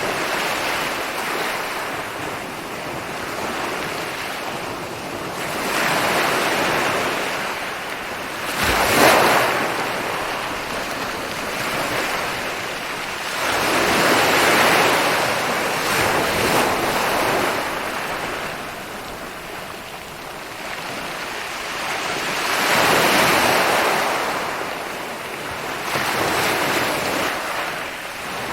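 Ocean waves rolling onto a beach: a steady wash of surf that swells and falls back every few seconds, with one sharper crash about nine seconds in.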